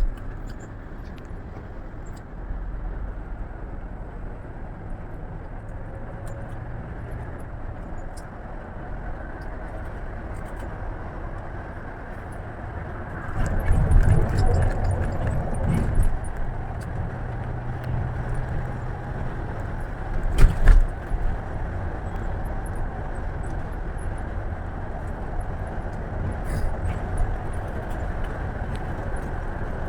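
Scania coach underway: steady engine and road noise with light rattles, a heavier rumble about halfway through and a single loud thump a few seconds later.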